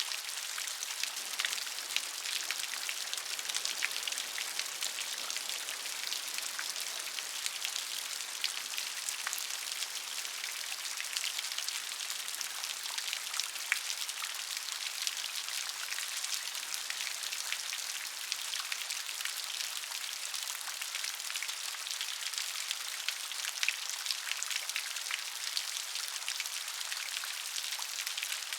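Steady rain: a dense patter of individual drops over an even, high hiss.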